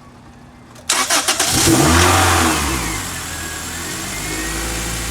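Toyota Celica's 2ZZ-GE four-cylinder engine cranking briefly and firing about a second in, flaring up in revs, then settling to a steady idle: the first start after an oil change.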